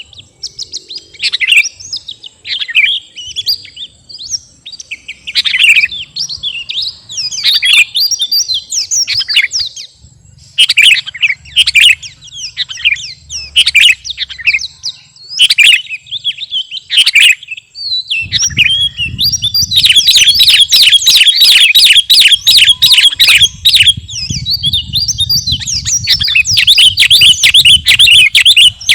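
Sooty-headed bulbul (kutilang) singing continuously. Short varied chirping phrases come first; from about 18 s in, the song turns into a long, fast run of rapid chattering notes.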